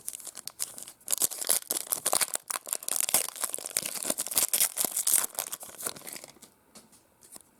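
Plastic foil wrapper of a baseball card pack being torn open and crinkled, a dense crackling that runs for several seconds and dies away near the end.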